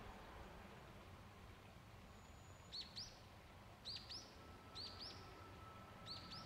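A small bird calling faintly: pairs of quick, high chirps repeated about once a second, starting a little under three seconds in, over low background noise. A faint steady tone comes in about four seconds in.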